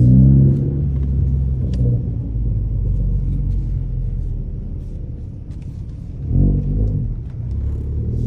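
Ford Focus ST's turbocharged 2.0-litre EcoBoost four-cylinder with an AWE axle-back exhaust, revving up at the start and then running at steady revs. About six seconds in the revs rise briefly, and they start climbing again near the end.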